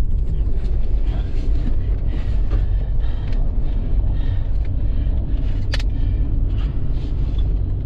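Steady low rumble of a running vehicle, with scattered light clicks and one sharp click a little under six seconds in.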